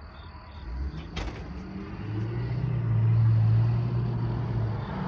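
Truck engine passing by, getting louder to a peak about three seconds in and then easing off as it moves away.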